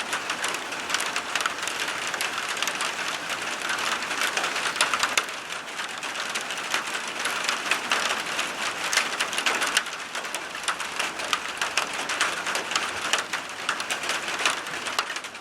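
Steady rain falling, a dense mass of separate drops hitting a surface close by, easing slightly about five seconds in and again near ten seconds.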